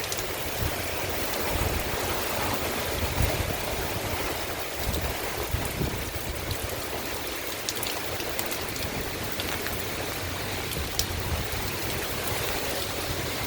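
Heavy thunderstorm rain pouring down as a steady, even hiss, with gusts of wind buffeting the microphone in uneven low thumps.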